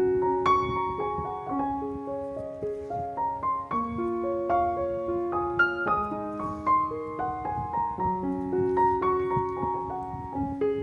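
Background piano music: a gentle melody over held notes.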